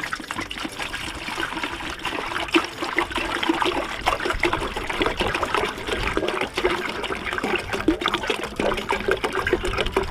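Water running and trickling steadily, with many small splashes.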